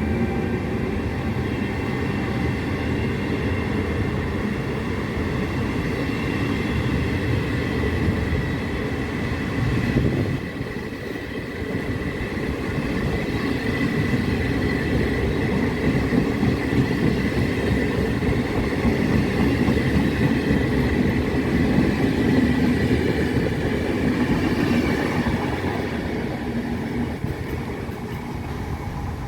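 A train running along the tracks, the rumble of wheels on rails with a steady high whine above it; it dips briefly about a third of the way in, grows louder through the middle, then eases off near the end.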